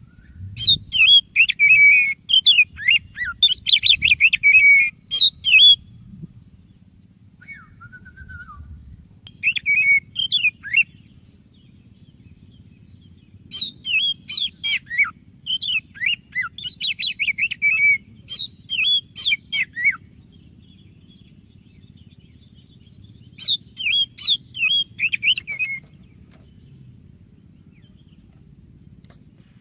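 Oriental magpie-robin (white-breasted kacer) singing in full voice: four long runs of rapid, sliding whistled notes with short pauses between them.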